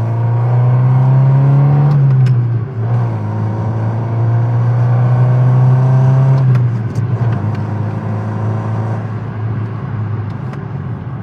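Alfa Romeo 75 1.8's carburetted four-cylinder engine revving. The pitch climbs over the first two seconds, dips briefly, and holds high for a few seconds. About six and a half seconds in it falls back and settles to a lower, steady speed.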